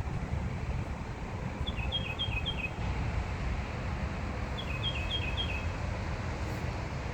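A small bird calling in short runs of about five quick, high chirps, a run about two seconds in and another about five seconds in, over a steady low rumble.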